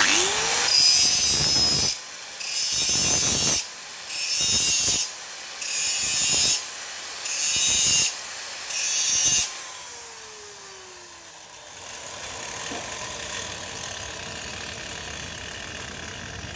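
Handheld power tool enlarging a hole in a thin sheet-metal oil filter casing: the motor spins up, then cuts in six short bursts about a second apart, and winds down after the last one.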